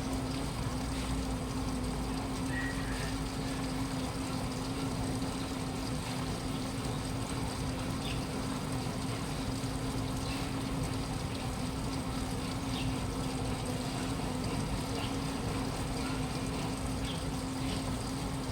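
Washing machine running steadily: a constant hum with water noise and a few faint ticks.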